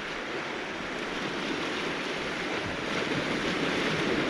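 Sea waves washing onto a cobble-stone shore: a steady surf hiss that swells gradually.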